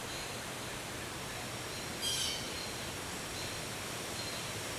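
Woodland evening ambience: a steady soft hiss with a faint high thin tone that comes and goes, and one short, high-pitched bird call about two seconds in.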